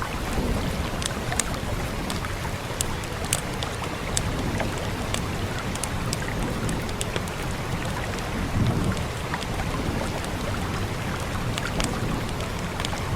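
Steady rain hiss with the sharp, irregular pops and crackles of a wood fire over it. A low rumble swells briefly about eight and a half seconds in.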